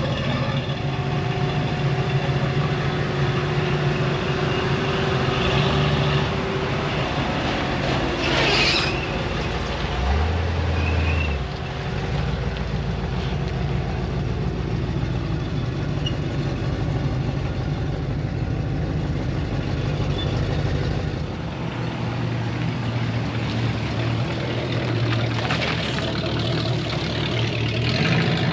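Pickup truck engines running and idling, a steady rumble whose pitch shifts now and then, with a short hiss about eight seconds in.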